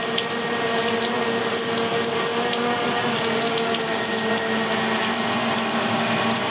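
DJI Mavic Air 2 drone's propellers humming steadily with a few held tones, over the hiss of continuous rain with scattered drops ticking.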